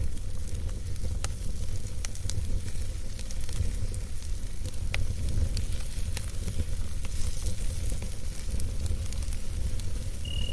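Wood campfire crackling: scattered sharp pops and snaps over a steady low rumble of the burning fire. A brief high tone sounds near the end.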